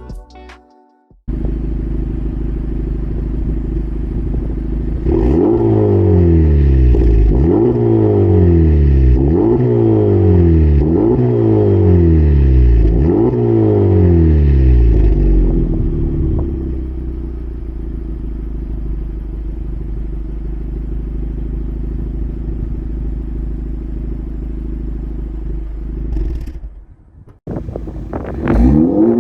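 Honda Civic Type R FL5's turbocharged 2.0-litre four-cylinder through an AWE Touring aftermarket exhaust, idling and then revved six times in quick succession, each rev falling back to idle about two seconds later. It then settles into a steady idle, and there is one more rev just before the end.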